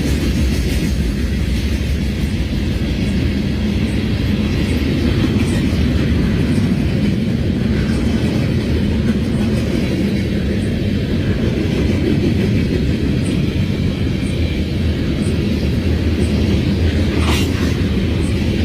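CSX freight train running by with a steady, loud low rumble of diesel locomotive and rolling cars, and a brief sharp click near the end.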